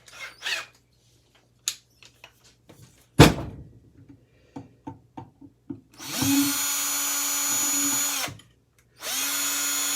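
Small clicks of handling and one sharp knock about three seconds in, then an electric drill runs steadily for about two seconds, stops, and starts again near the end, drilling out a stripped screw.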